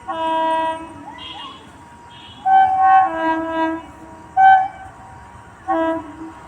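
Electric locomotive horn sounding four blasts. The second blast is longer and changes pitch partway through.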